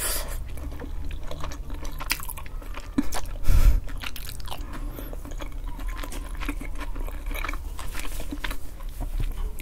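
Close-miked chewing and wet mouth sounds from eating oven-baked eggplant with cheese and garlic, full of small smacks and clicks. A dull low thump comes about three and a half seconds in.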